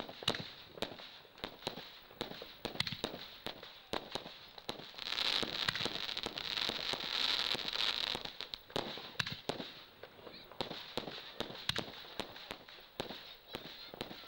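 Fireworks going off in quick succession: a steady run of sharp bangs and crackles, with a denser hissing crackle from about five to eight seconds in.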